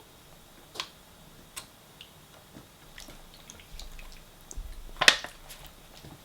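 Scattered light clicks and taps of cutlery against takeaway food containers as food is served, with a louder cluster of clicks about five seconds in.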